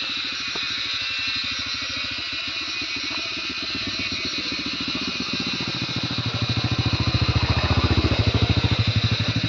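A small engine running with an even, rapid beat that grows louder about six seconds in, over a steady high insect buzz.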